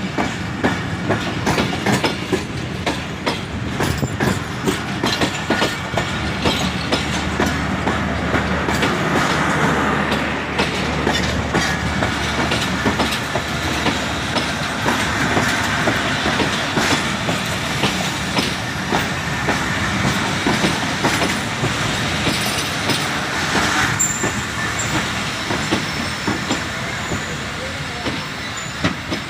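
A train running on the track, its wheels clacking over the rail joints in a steady string of clicks.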